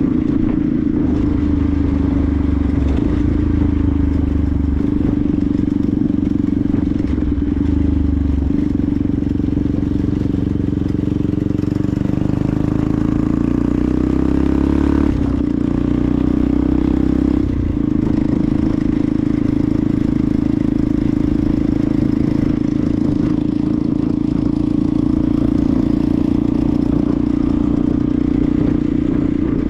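Benelli TNT 125's single-cylinder 125 cc four-stroke engine running steadily on the move, with the engine note shifting in the middle and two brief dips about 15 and 17 seconds in, as with gear changes.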